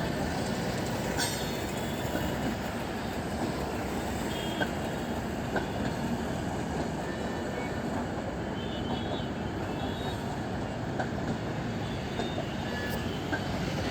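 Passenger express train moving through the station: a steady noise of wheels on rails, with a few faint clicks.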